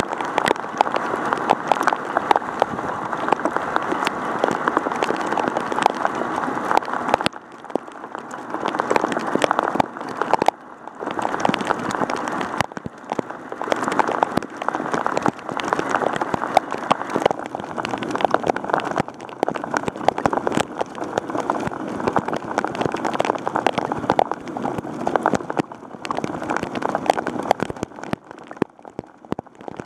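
Heavy rain striking an action camera up close: a dense, crackling patter of drops hitting the camera body and microphone, easing briefly a few times.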